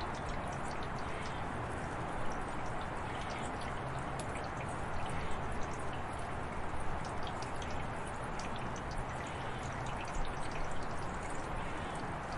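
Steady rain falling, a constant rush of water with many separate drops ticking on nearby surfaces.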